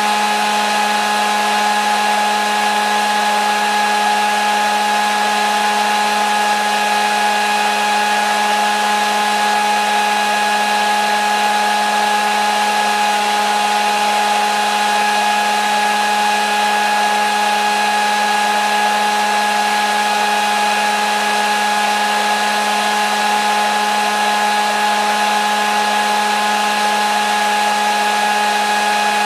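Electric hair dryer running steadily, a constant blowing hiss with a steady motor whine and no change in speed.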